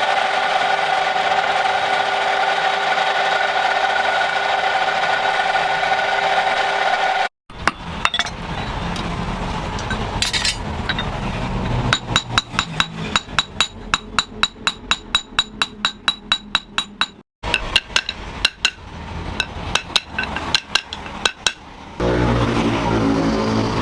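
Hand hammer blows on metal at a forge anvil, ringing strikes in a quick even rhythm of about four a second, in two runs split by an abrupt cut. Before them, for the first seven seconds, a steady machine hum with fixed pitches, such as a forge blower or grinder motor.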